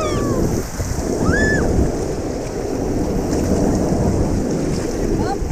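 Rushing, splashing water mixed with wind buffeting the microphone, a loud steady roar. Two short high voice calls rise and fall in the first second and a half, with fainter ones near the end.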